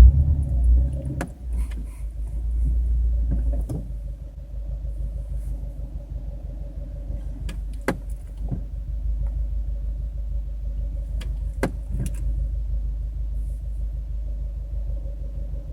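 Subaru WRX with its engine running as a steady low rumble, and a handful of short sharp clicks or pops standing out over it at irregular moments. These pops fit the new popping and creaking from the front, on the driver side of the engine bay, that appeared after a turbo replacement.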